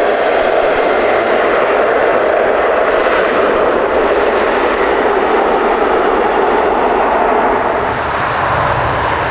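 Loud, steady jet airliner engine noise, with a deeper rumble building about eight seconds in.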